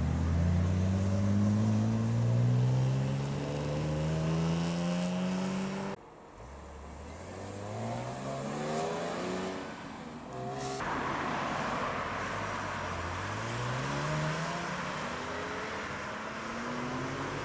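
Modified BMW cars accelerating away one after another, each engine note rising steadily in pitch. The sound cuts off abruptly about six seconds in and again about eleven seconds in, each time giving way to another car pulling away.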